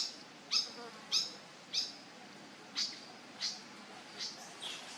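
Infant macaque giving a run of short, high squeaking calls, each falling in pitch, about eight of them, fainter towards the end.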